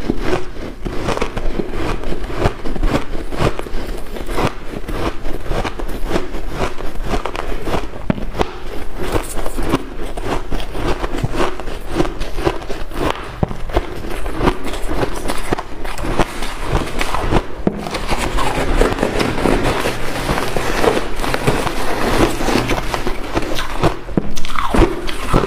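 White ice being chewed and crunched, a dense unbroken run of sharp cracks and crunches.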